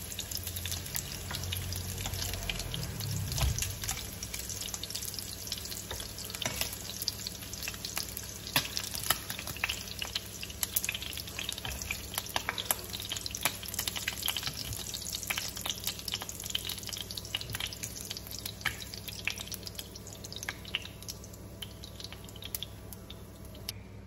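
Pork ribs frying in hot oil in a non-stick pan, a steady sizzle full of sharp crackles and spits. The crackling thins out and quietens over the last few seconds as the pan is emptied.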